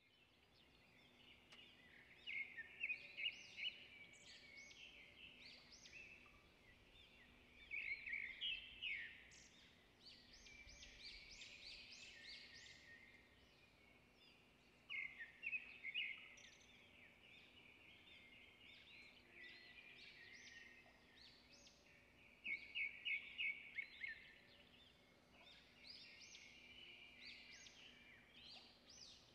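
Songbird singing: a short phrase of rapid high notes repeated about every six to seven seconds, with quieter chirps between phrases, over a faint steady hum.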